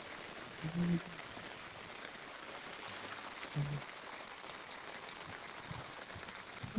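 Steady rain falling, an even hiss, with brief voices about a second in and again past three seconds.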